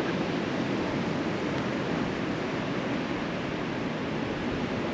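Steady rush of Gulf surf and wind on the beach, an even noise without breaks.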